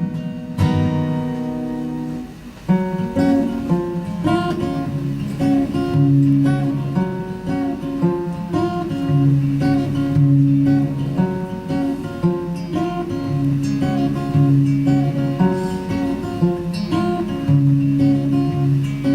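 Solo acoustic guitar playing an instrumental passage. A chord rings for about two seconds and dies away, then a repeating figure of picked notes over a changing bass line.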